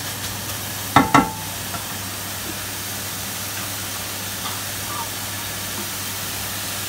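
Minced pork sizzling as it is dry-fried and stirred in a wok, with two sharp knocks of the wooden spatula against the pan about a second in.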